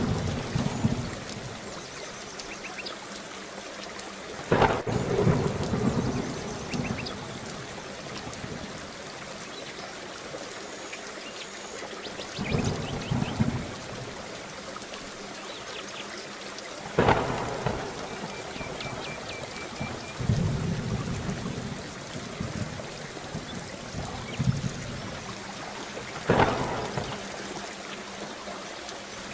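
Steady rain with repeated thunder: three sharp claps, about five, seventeen and twenty-six seconds in, each followed by a rolling rumble, and lower rumbles between them.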